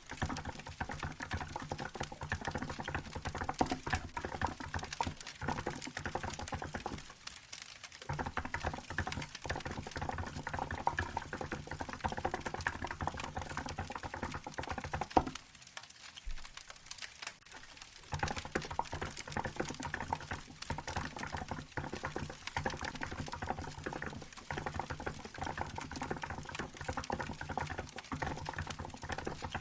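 Fast, steady typing on a Hansung GK868B mechanical keyboard with milk-white keycaps: continuous runs of key clacks that stop for about a second near the quarter mark and for about two seconds around the middle.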